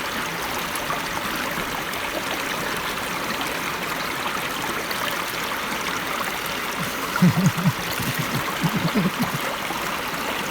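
Mountain river flowing steadily, an even rushing and trickling of water. About seven seconds in, a run of short, low murmur-like sounds rises over it for a couple of seconds.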